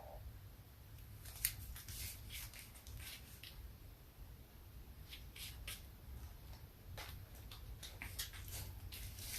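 Faint, irregular light clicks and taps, coming in small clusters, over a steady low room hum.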